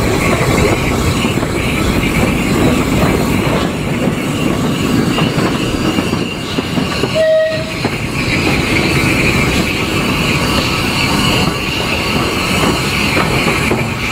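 Steam-hauled train of S&D 7F 2-8-0 53809 running on the rails: a steady, loud rumble of wheels and carriages. A brief high tone sounds about seven seconds in.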